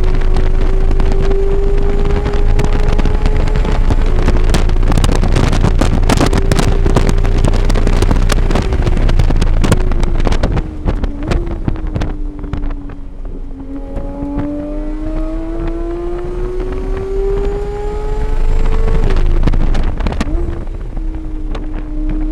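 Car engine heard onboard at a track day, holding high revs and slowly climbing, then dropping with short throttle blips as it brakes and downshifts, then pulling up again, with wind buffeting on the microphone.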